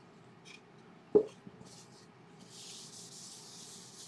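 A single sharp knock about a second in, then from about halfway a steady rubbing noise of something being rubbed against the wooden bowl.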